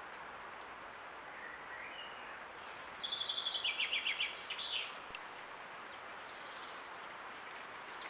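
A bird sings one short song about three seconds in: a quick run of notes falling in pitch, ending in a brief flourish, over steady background hiss.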